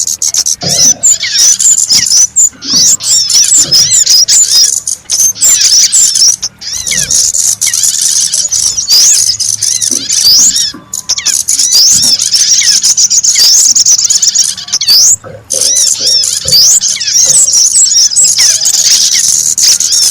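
Many small songbirds chirping and twittering at once in a dense, high-pitched chorus of quick overlapping calls, the kind of recording played as a lure to draw small birds in.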